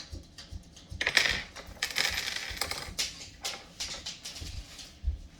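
Small metal mounting hardware (nuts, bolts and brackets) being handled, with a quick run of clicks, clinks and rattles, busiest from about a second to three seconds in, and a nut dropping.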